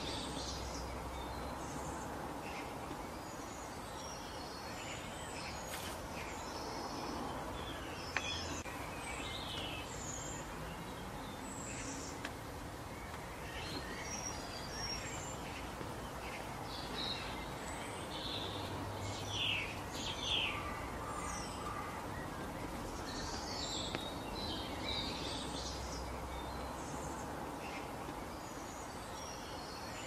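Birds chirping and calling: short, high calls scattered throughout, over a steady background hiss, with a busier run of calls about two-thirds of the way through.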